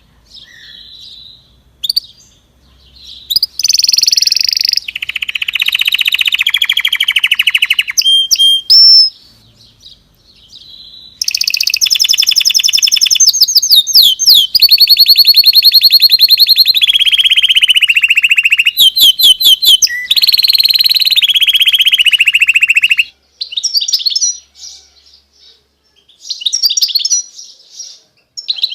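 A caged songbird singing loud, long rapid trills and rolling phrases. It breaks off about three seconds in, pauses briefly near ten seconds, sings again, then gives shorter bursts of chirping near the end.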